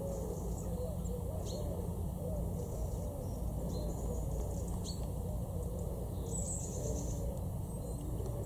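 Birds calling outdoors: a run of low, curved, repeated calls, with a few short high chirps, over a low steady rumble.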